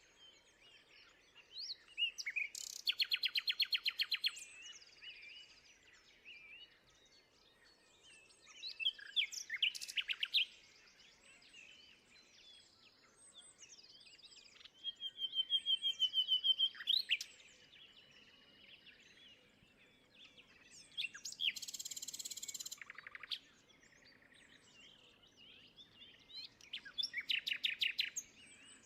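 Songbirds singing, with a loud song phrase about every six seconds over quieter chirps. One phrase a little past the middle is harsh and buzzy.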